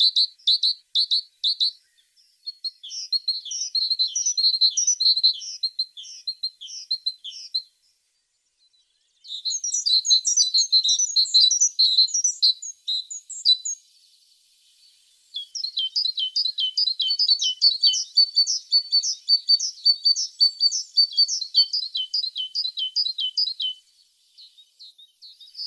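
A tit singing: bouts of rapid, repeated high chirping notes, broken by short pauses of a second or two.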